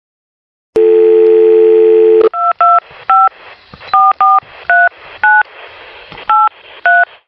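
Telephone dial tone, a steady two-note hum, that stops after about a second and a half, followed by a string of about nine touch-tone keypad beeps as a number is dialled, with a faint line hiss between them.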